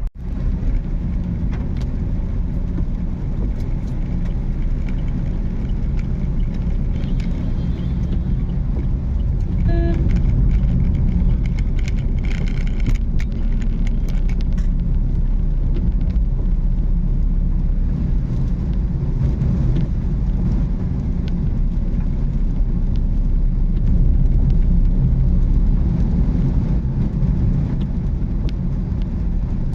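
Car driving along a road: a steady low rumble of engine and tyres that holds without breaks.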